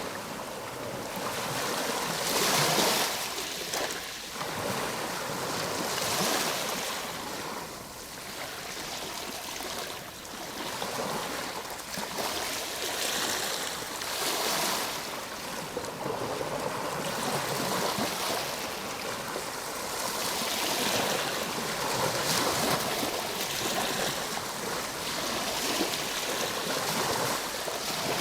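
Ocean waves washing onto a shore: a steady hiss of surf that swells and eases every few seconds as waves break and draw back.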